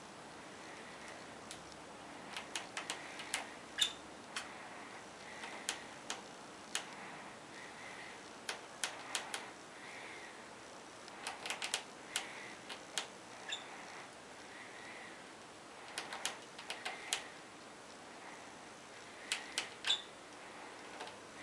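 Budgerigar pecking and tapping its beak at a wall: sharp clicks in irregular clusters of several, with short pauses between.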